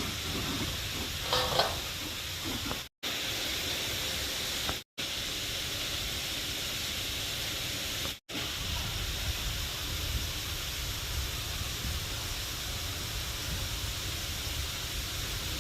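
Steady rushing hiss of a waterfall, broken by three brief silent gaps.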